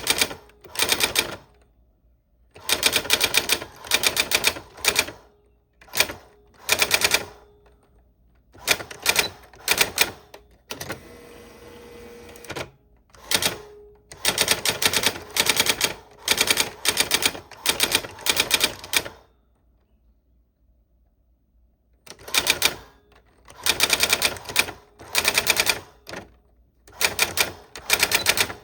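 Old typewriter being typed on: rapid clacking keystrokes in bursts with short pauses, a quieter steady rasping stretch about eleven seconds in, and a pause of a few seconds about two-thirds of the way through.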